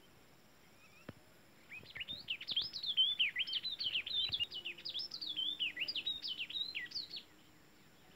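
A songbird singing a fast, unbroken run of high, warbling notes for about five seconds. It starts about two seconds in and stops shortly before the end.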